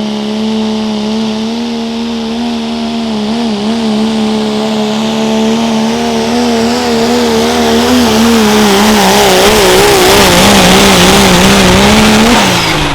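A pro stock diesel pickup truck pulling a sled, its engine held at high revs under load with the pitch wavering. It grows louder, then the engine drops off sharply near the end as the throttle is let off.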